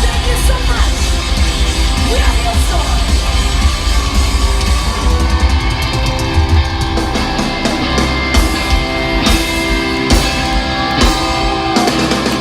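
A rock band playing live: loud, heavy, guitar-driven music with bass and drum kit. From about halfway, sharp drum and cymbal hits stand out more clearly.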